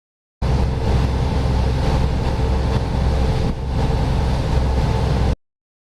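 Engine of a Chao Phraya express river boat running steadily, a loud low drone with a steady hum, heard on board. It starts abruptly about half a second in and cuts off just before the end.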